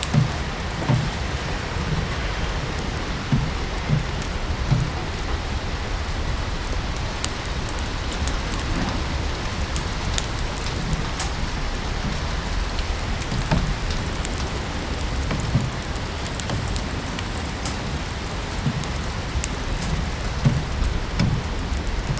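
Steady rain with a wood fire crackling, with scattered sharp pops and soft low thuds at irregular moments.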